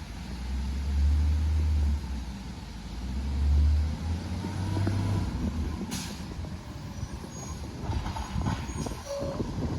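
Garbage truck's diesel engine revving hard in two surges, as when the truck works its lift or packer, then easing back. Scattered metallic clanks and knocks follow near the end.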